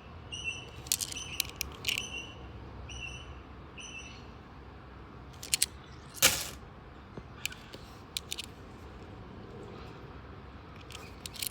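Coins clicking and clinking as they are handled and sorted, in scattered sharp clicks, the loudest about six seconds in. A bird chirps a repeated short note through the first few seconds.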